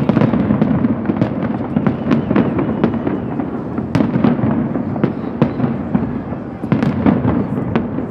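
Fireworks going off: a continuous rumble of bursts with many sharp crackling pops, several a second.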